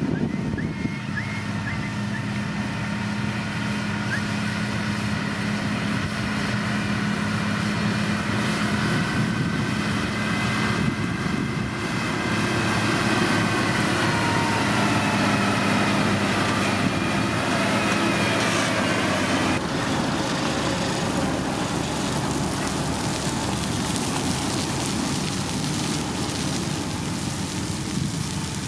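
Diesel engine of a heavy road-building machine, a motor grader or road roller, running steadily under work, with thin whining tones that slowly rise and fall in pitch.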